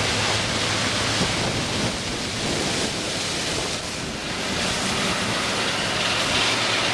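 Combine harvester working through standing corn, a loud, steady rushing noise with no clear engine note.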